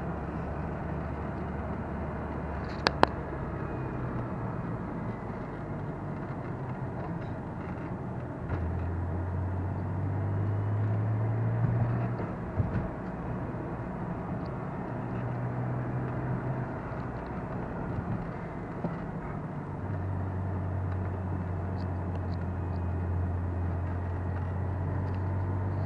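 Lotus Carlton's twin-turbo 3.6-litre straight-six heard from inside the cabin over tyre and road noise. It drones steadily at first, pulls harder with a rising pitch about eight seconds in and eases off near twelve seconds, then accelerates again from about twenty seconds with the pitch climbing slowly. A single sharp click comes about three seconds in.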